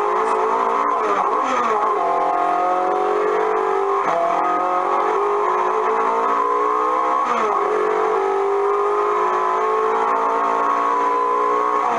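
Recorded rally car engine sound effect played through a coin-operated kiddie ride's speaker: a revving engine whose pitch drifts and jumps sharply about a second in and again about seven seconds in.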